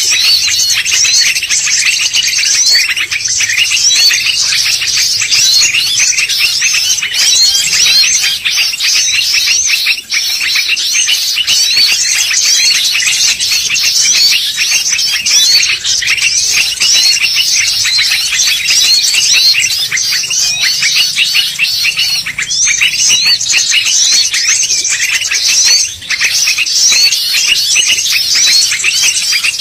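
Bar-winged prinia (ciblek) song played as a lure call: a loud, dense, unbroken run of rapid high chirps and twitters.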